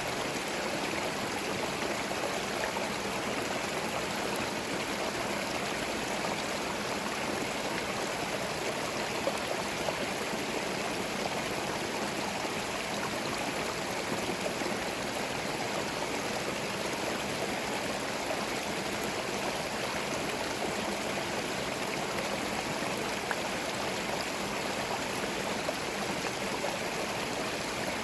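Small forest stream flowing and burbling over stones: a steady, even rush of water with no change.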